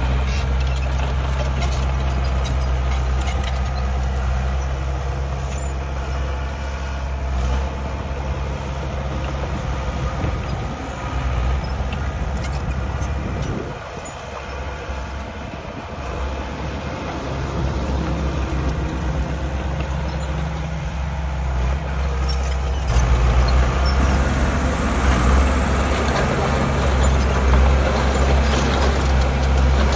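Small crawler bulldozer's diesel engine running steadily under load, with the clank and rattle of its steel tracks. The engine dips briefly about halfway through, then grows louder for the last part.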